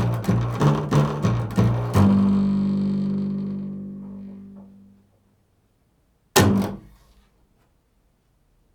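Quick low plucked notes on a stringed instrument, ending about two seconds in on one note that rings and fades away over about three seconds. A single thump follows about six seconds in.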